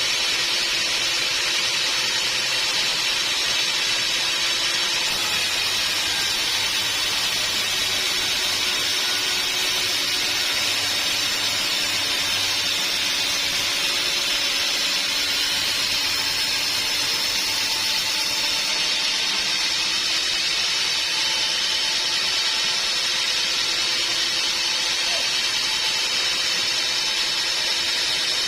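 Band sawmill running steadily, a continuous hissing noise high in pitch with a few faint steady tones underneath and no break.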